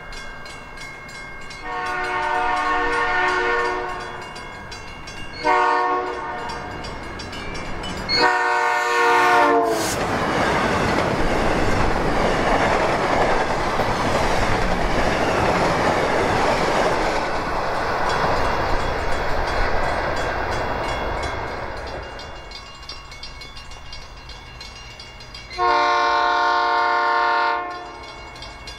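Horn of a South Shore Line electric passenger train giving three blasts, long, short and long, as it approaches. The train then passes in a loud steady rush of wheel and car noise for about twelve seconds, which fades away. Near the end another South Shore train sounds its horn once in a long blast.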